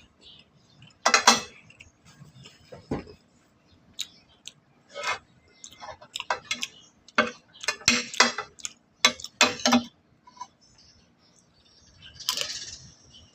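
Eating utensils clicking and clinking against dishes in irregular sharp taps, busiest partway through.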